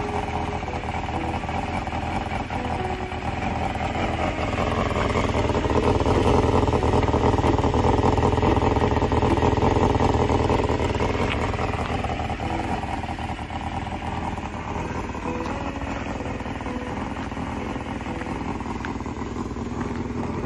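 Honda Jade 250's inline-four motorcycle engine running, growing louder for several seconds about a quarter of the way in and then settling back. Faint music notes sound over it near the start and end.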